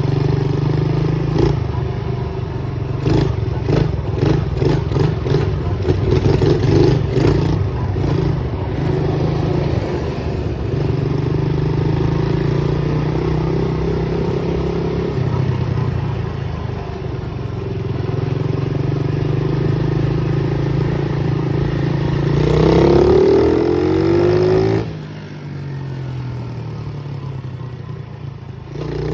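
Pit bike engine running under throttle while it is ridden, with a stretch of rattling knocks in the first third. About three quarters in the revs climb, then drop off sharply to a lower drone.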